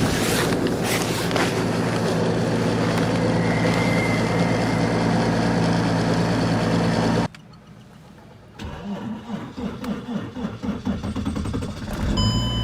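A cold-soaked engine running steadily, cut off suddenly about seven seconds in. Then a starter cranking it over in deep cold, with uneven pulses, until the engine catches and runs near the end.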